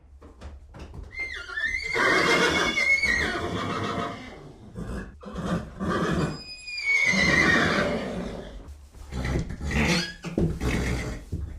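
Horse neighing three times, each a long whinny with a high, wavering pitch that falls away.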